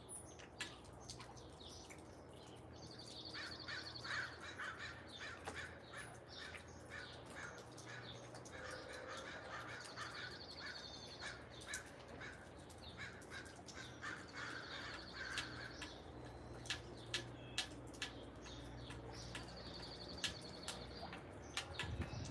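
Backyard wild birds calling around a feeder. A high, rapid trill comes about four times, with rougher, lower calls in between and scattered sharp clicks.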